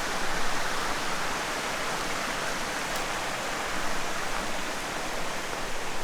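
River water rushing steadily over rocks, a dense even roar of running water.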